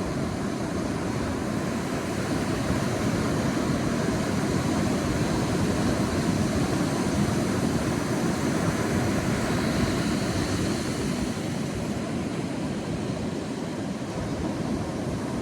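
Sea waves washing on a beach as a steady, low rush of surf that swells a little and eases off again.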